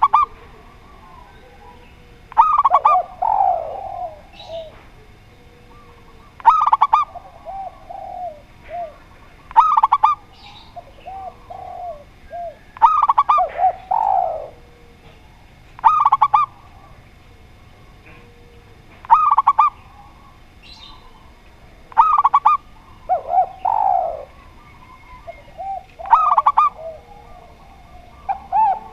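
Spotted dove and zebra dove cooing, a fresh phrase about every three seconds: bright higher notes each followed by lower falling coos.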